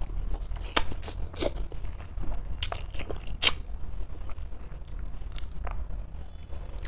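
A person eating close to the microphone: irregular crisp bites and chewing crunches. A steady low hum runs underneath.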